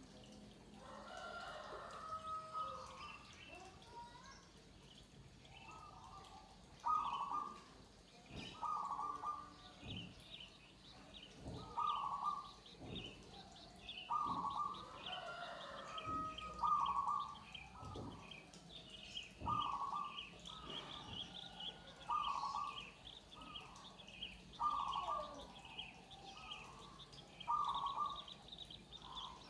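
Zebra doves (perkutut) cooing, short phrases around 1 kHz repeated every second or two, with several birds calling in turn. A fast, high chirping from other small birds runs behind them through most of the stretch.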